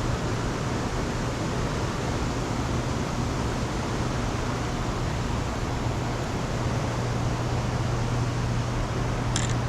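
A steady low hum over a constant rushing noise, with one short click near the end.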